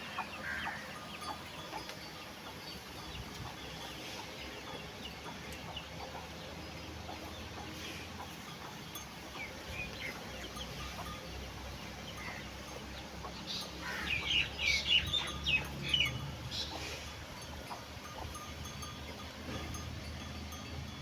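Animal calls, short and high-pitched, scattered over a steady low hum, with a flurry of louder rapid calls about two-thirds of the way through.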